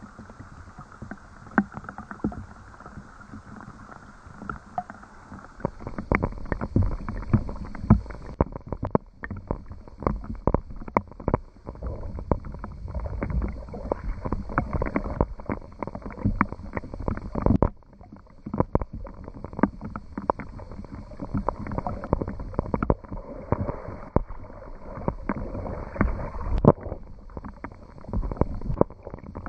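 Rain falling, with many irregular drops and drips striking close to the microphone over a low rumble, heavier from about six seconds in.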